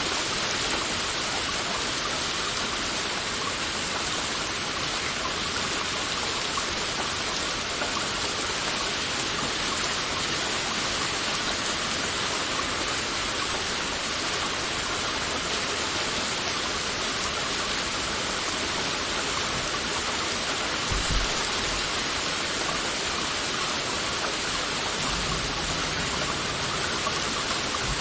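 Heavy rain falling steadily, a dense even hiss of drops. About three quarters of the way in there is a brief low thump, and a low rumble near the end.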